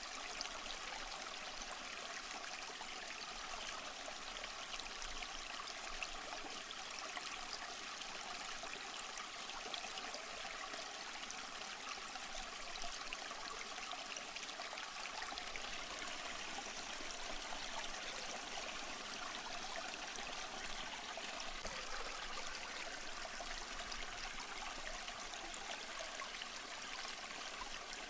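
Small stream flowing and trickling over rocks: a steady, even babble of running water.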